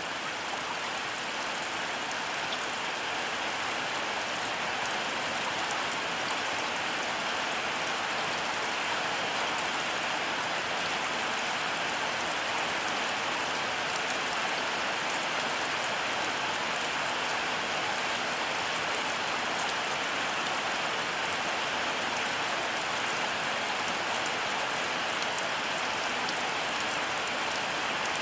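Heavy rain falling steadily, an even hiss with no thunder and no change in strength.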